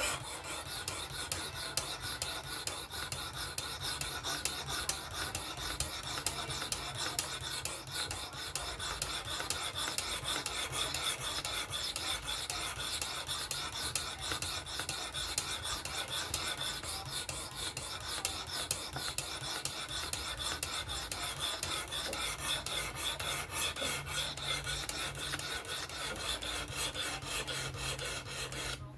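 Knife blade stroked rapidly back and forth across the abrasive stone of a fixed-angle sharpener: a continuous rasping scrape without a break.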